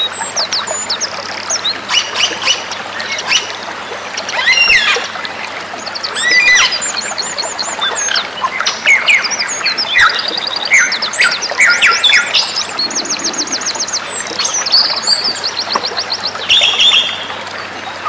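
Several songbirds calling and singing over one another: fast high trills, rapid runs of repeated notes, whistled slurs and chattering, over a steady hiss.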